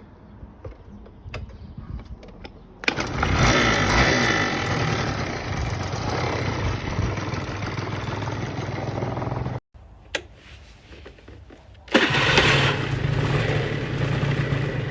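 Honda Dio scooter's small two-stroke engine running. It comes in twice: from about three seconds in until it cuts off abruptly, then again steadily near the end.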